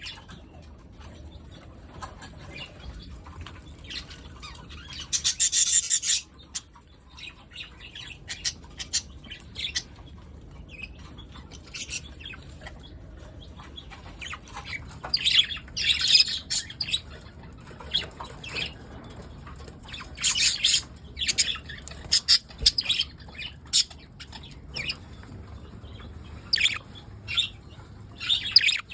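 Pet budgerigars chirping and chattering in short high bursts, with several louder flurries of calls.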